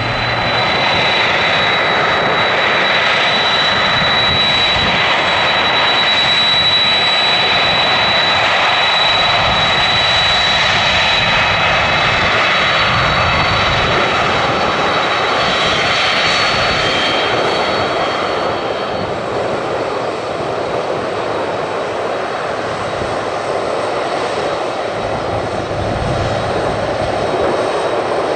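Airliner engines running: a steady loud roar with a thin high whine on top that fades out about halfway through.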